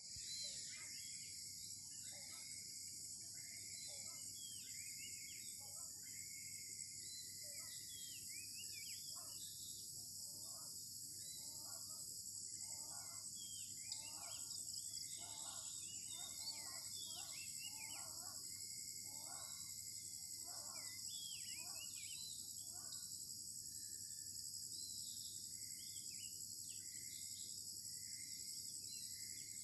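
Dusk insect chorus, a steady high-pitched drone of crickets and cicadas, with many short bird calls, thickest in the middle.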